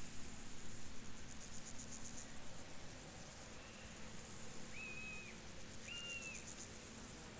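Field crickets chirping in fast, high-pitched pulsing trains that swell and fade in bouts, over a faint steady outdoor background. Two short whistled bird notes come about five and six seconds in.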